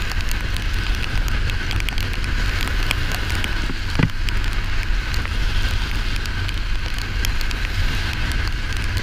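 Steady rain, with many drops ticking close to the microphone over a low steady rumble, and a single louder knock about four seconds in.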